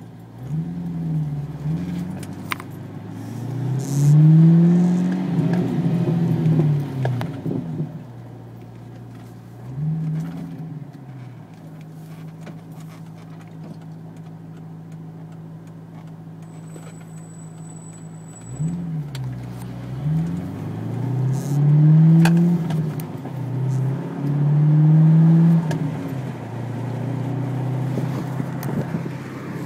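2004 Pontiac GTO's LS1 V8 with an X-pipe and Spintech mufflers, heard from inside the cabin while driven gently: the engine note rises through several moderate accelerations that break off at gear changes, with a steady low drone while cruising or idling in between.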